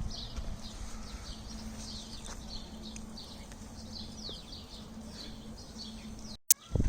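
Small birds chirping, many short quick notes over one another, with a faint steady low hum underneath. Near the end the sound cuts out for a moment, then a loud rumbling noise starts.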